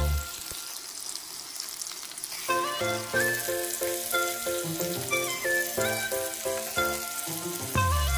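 Talakitok (trevally) fish steaks and diced onions sizzling in oil in a grill pan, with a spatula moving through them. Background music with a stepping melody comes in about two and a half seconds in.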